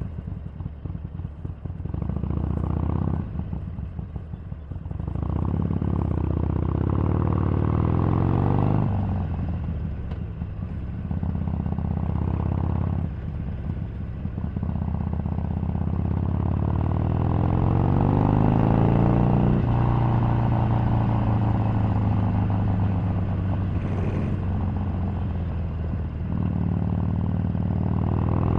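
Harley-Davidson 883 Sportster's air-cooled V-twin running under way, its pitch rising as it accelerates and falling back as the throttle closes, several times over.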